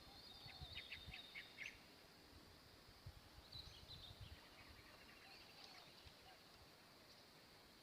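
Faint chirping of small wild birds: a quick run of short high chirps in the first two seconds, then scattered calls, over a quiet outdoor background with a few soft low bumps.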